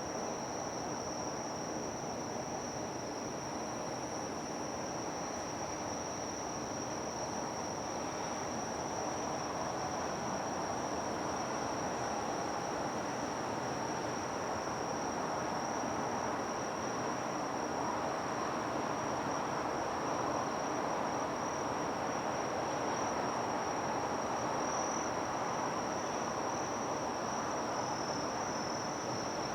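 Insects singing in one unbroken high-pitched trill, over a steady even background of outdoor noise.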